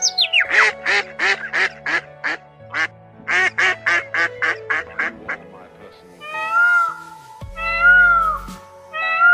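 Mallard ducks quacking in two quick runs of calls over background music. In the last few seconds come several longer, arched animal calls, about half a second each.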